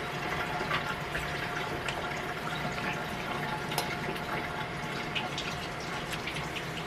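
A person eating spaghetti with meat sauce: wet mouth sounds and small scattered clicks, over a steady background hum.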